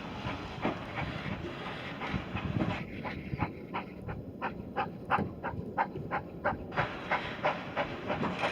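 Steam train: a hiss of steam, then a steady run of sharp clicks about three a second, then the hiss again near the end.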